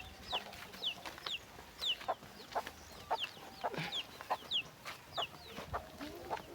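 Birds chirping: a string of short, high chirps that each slide downward, about two a second, over scattered soft knocks and rustles.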